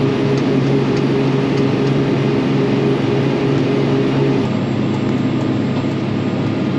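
A crop sprayer's engine runs with a steady drone; its tone shifts about four and a half seconds in.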